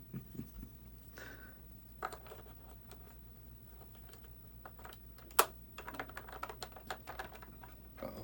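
Irregular light clicks and taps of small parts being handled and fitted onto an RC model plane's bomb-drop mounts, with one sharper click about five seconds in and a quick run of small clicks after it.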